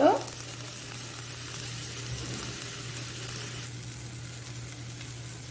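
Chopped tomatoes sizzling in oil in an aluminium kadai on a gas stove, frying until they turn soft. The sizzle is a steady hiss that gets a little softer about three and a half seconds in.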